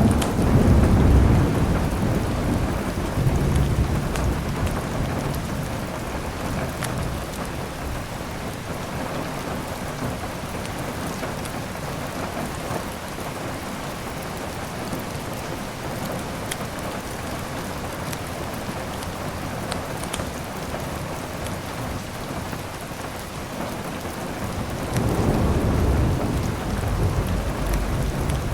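Steady heavy rain on a surface, with rolling thunder rumbling at the start and again near the end, and a few faint crackles of a wood fire.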